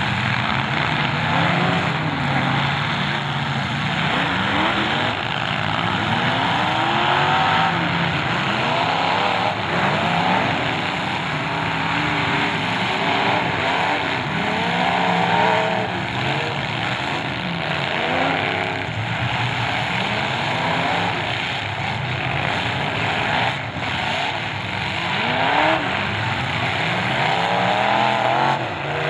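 Several demolition derby cars' engines revving up and falling back over and over, overlapping, with occasional thuds of cars hitting each other.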